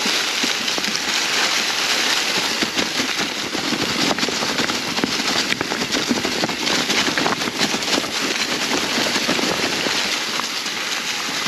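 Mountain bike rolling down a trail covered in dry fall leaves: leaves crackling under the tyres, with frequent short knocks and rattles from the bike over rough ground.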